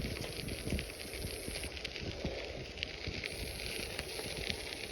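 Bicycle tyres rolling over a gravel trail surface, a dense crackle of small grit clicks over a low rumble. A faint high hiss comes and goes twice.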